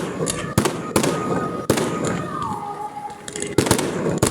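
Fireworks display: a series of sharp bangs from bursting shells, several in quick succession near the end, with a high whistle that drops in pitch about halfway through.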